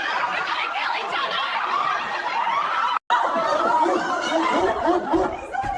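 Several voices laughing and chattering over one another, broken by a brief cut about halfway through.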